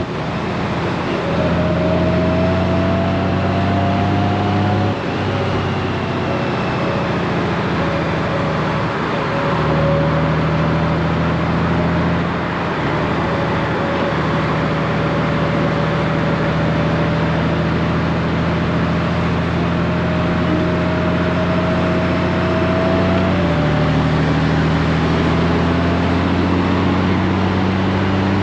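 Honda Gold Wing's flat-six engine running under way, its note holding steady and then changing pitch abruptly a few times, over steady wind and road noise.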